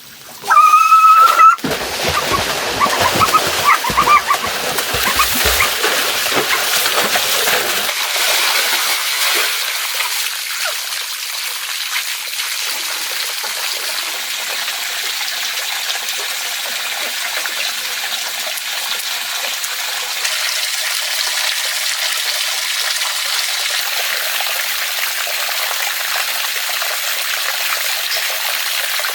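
Steady rush of flowing water, uneven and splashy for the first several seconds and then even. A brief high whistling tone sounds in the first second or so.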